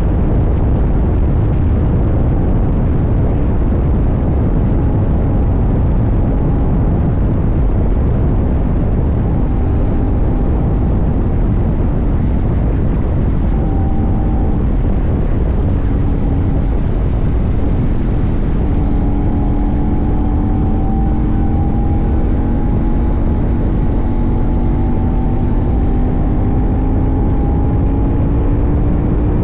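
CFMoto 800NK's parallel-twin engine running under way, over a steady low rush of wind and road noise. Its pitch climbs slowly in the second half as the bike accelerates.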